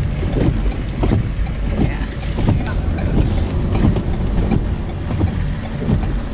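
Car on the move: a steady low road rumble with wind noise and irregular knocks and buffets.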